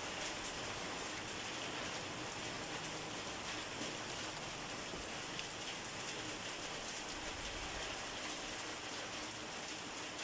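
Steady rain: an even hiss of many drops falling on a surface, with no change in intensity.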